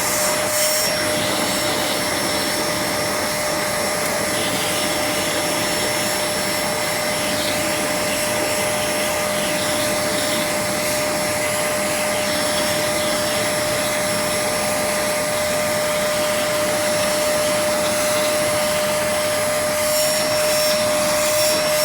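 Vacuum cleaner running steadily with a constant whine, drawing dust from a room air conditioner's filter.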